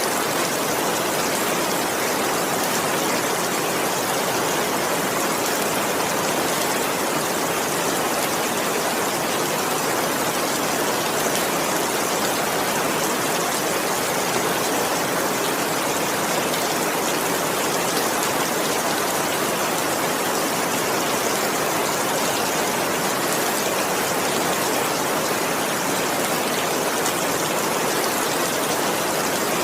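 Steady heavy rain, an even hiss of falling water with no breaks.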